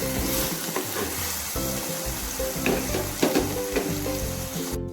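Chopped shallots and garlic paste sizzling in hot oil in a pan while being stirred, with a spoon scraping and tapping against the pan now and then. Soft background music runs underneath, and the sizzling cuts off just before the end.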